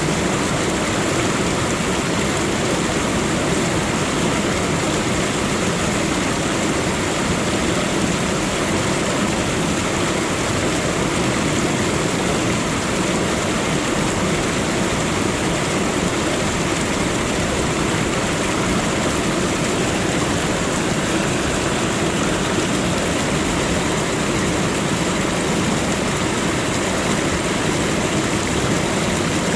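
Waterfall: water falling and crashing in a steady, dense rush that does not change.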